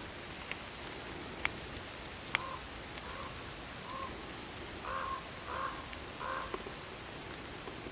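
Steady hiss of rain in a forest with a few sharp drips, then an animal calling about six times in short, evenly spaced calls, the last three louder and harsher.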